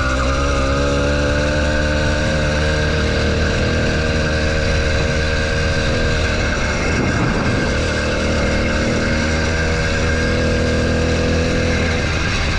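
80cc two-stroke bicycle engine kit running steadily at speed, driving the mountain bike on its own without pedalling.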